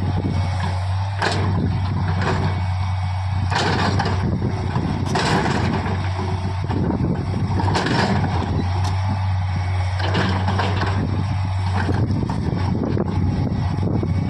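Diesel engine of a backhoe loader running steadily under work, with a constant low hum and a few short knocks and clanks from the machine scattered throughout.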